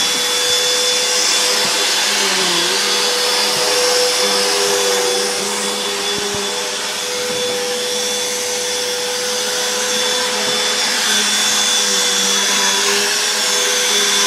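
Upright household vacuum cleaner running continuously while vacuuming carpet, a steady loud motor whine with rushing airflow, its pitch wavering slightly as the head is pushed back and forth.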